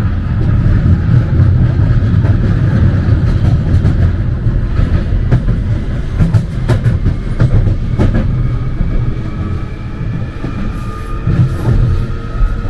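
London Underground Jubilee line train running, heard from inside the carriage: a heavy rumble with scattered clicks from the wheels and track, and a traction motor whine rising in pitch in the last few seconds as it picks up speed.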